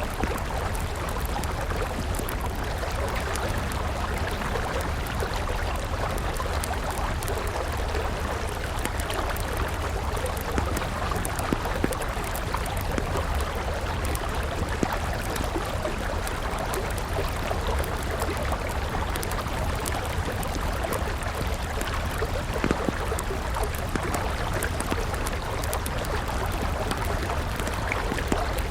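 River water flowing steadily, with a wood campfire crackling now and then.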